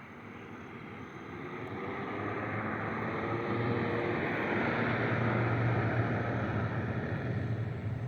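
Shortwave radio static from a Tecsun PL-880 receiver between stations: a rushing hiss with a faint low hum, swelling over the first few seconds and then holding steady.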